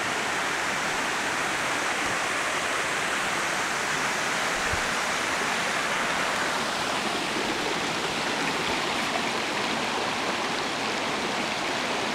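Mountain stream rushing steadily over rocks, a loud, even water noise.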